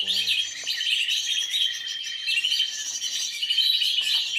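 Many small birds chirping and twittering at once in a dense, unbroken chorus of high, quick notes.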